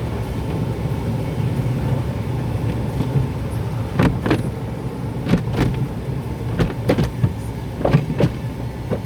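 Automated car wash heard from inside the car: a steady low rumble, joined from about four seconds in by irregular short, sharp knocks and splashes.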